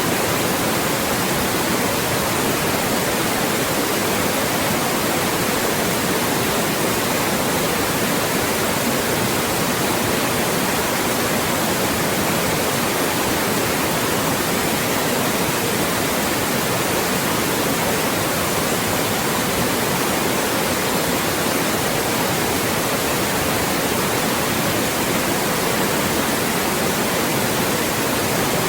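Loud, steady synthetic white noise, an even hiss across all pitches with no change.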